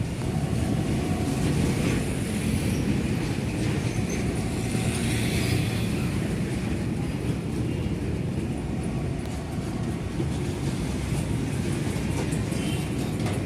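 Indian Railways goods train's wagons rolling past on the rails, a steady, even running noise of wheels on track.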